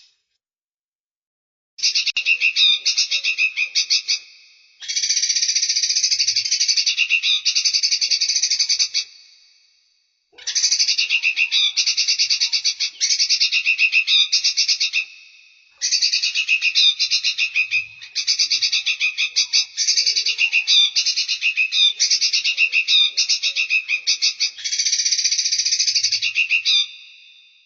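Songbird giving long phrases of very fast, buzzy trilling calls, each lasting a few seconds with short pauses between them, after about two seconds of silence; a clean recording of the bird, with no background noise.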